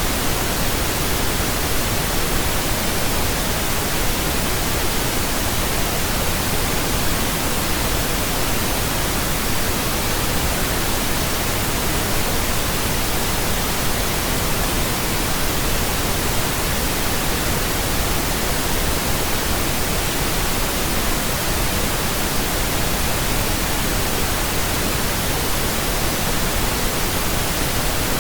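Steady pink noise: an even, unchanging hiss across the whole range, with nothing else in it.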